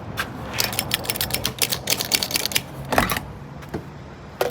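Rapid, irregular clicking and rattling in clusters, like small plastic or metal parts being handled, over a faint low steady hum.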